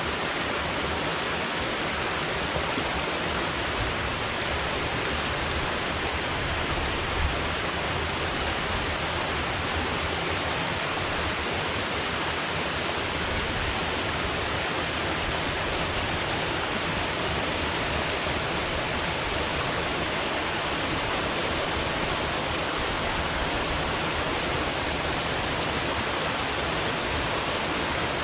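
Water falling from a dam spillway and the river rushing below it: a loud, steady, dense rush with no breaks.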